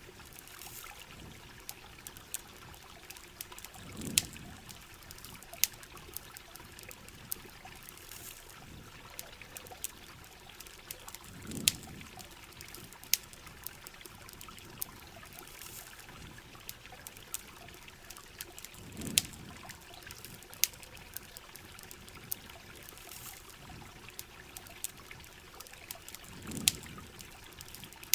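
Steady rain and running water with a campfire crackling in scattered sharp pops. A low swell of sound comes back about every seven and a half seconds.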